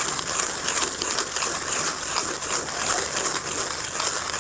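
TIMEMORE Nano hand coffee grinder being cranked, crunching through freshly home-roasted coffee beans in a steady rhythm.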